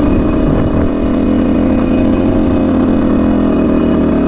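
Husqvarna SMS 125 two-stroke dirt bike engine running at steady revs while being ridden, a loud, even engine note.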